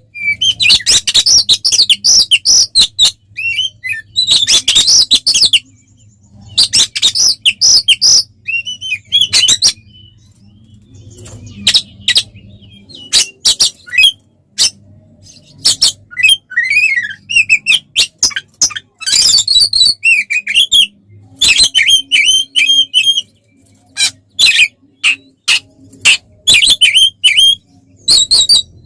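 Oriental magpie-robin (kacer) singing loudly in its agitated fighting mode. It delivers rapid, varied bursts of high whistles, scratchy notes and sharp clicks, a second or two at a time, with short pauses between them.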